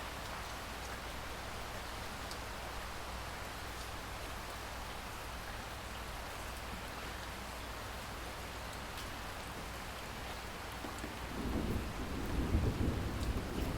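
Steady rain hiss, with a low rumble of thunder building up about eleven seconds in.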